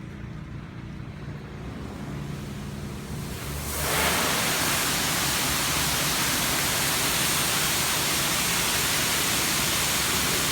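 Touchless car wash's high-pressure water jets come on about four seconds in: a sudden, loud, steady hiss of water spraying onto the car, heard from inside the cabin over a low idling hum.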